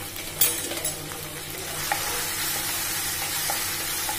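Onion, garlic and chilli sauce base sizzling in hot oil in a non-stick kadhai, just after soy sauce is poured in, while a spatula stirs and scrapes it, with a sharp scrape about half a second in. The sizzle grows louder about two seconds in and holds steady.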